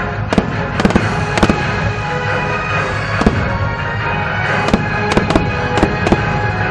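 Aerial fireworks bursting overhead: about ten sharp bangs at irregular spacing, coming thicker in the second half, over steady music.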